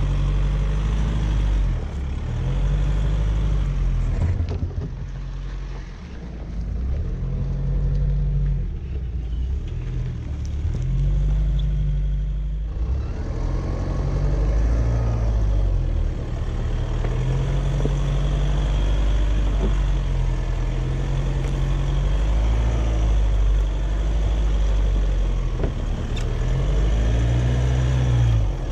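Jeep engine driven at low speed off-road, its pitch rising and falling again and again as the throttle is worked, over a steady low drone.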